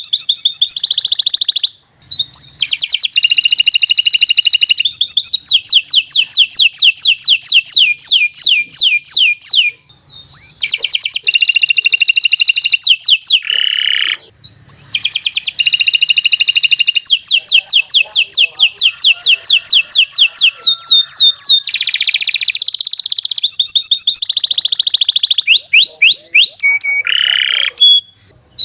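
Domestic canary singing a long, loud song of fast trills and runs of rapidly repeated high notes, breaking off briefly about 2, 10 and 14 seconds in.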